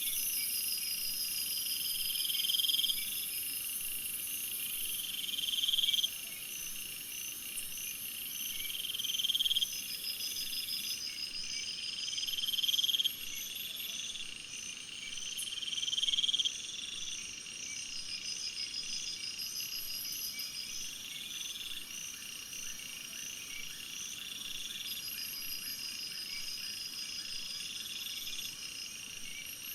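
Insect chorus: fast, high-pitched pulsed trilling keeps going throughout. Over it, a buzz swells louder for a second or two and cuts off suddenly, repeating about every three and a half seconds until about halfway through, then stopping.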